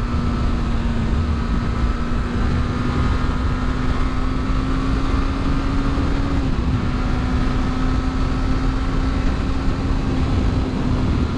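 Sport motorcycle engine holding a steady cruise under heavy wind and road noise on the helmet microphone; its note creeps up slightly, dips briefly about six and a half seconds in, then holds steady again.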